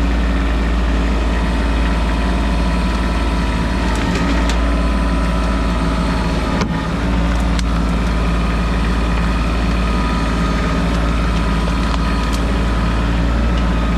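Kioti CK2610 compact tractor's three-cylinder diesel engine running steadily, with a few sharp clicks or cracks over it in the middle.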